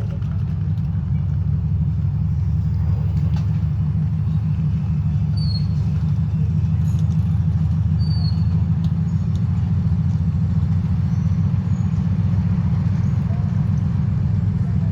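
Diesel locomotive 2TE10UT's two-stroke 10D100 engines running steadily close by: a deep, even drone that swells slightly in the first second. A few short, faint high chirps sound over it partway through.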